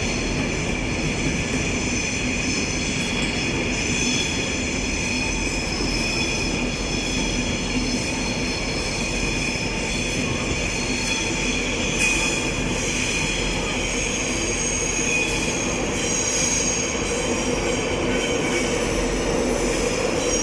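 Class 91-hauled InterCity 225 passenger train running slowly into the platform with its wheels squealing. Several steady high squealing tones sound over a continuous rail rumble.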